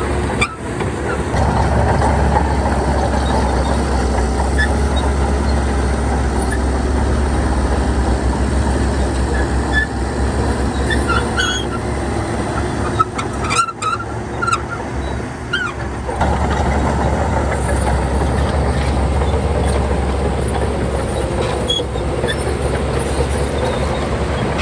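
Shantui bulldozer's diesel engine running steadily under work, a loud low drone, with a few short high squeaks near the middle.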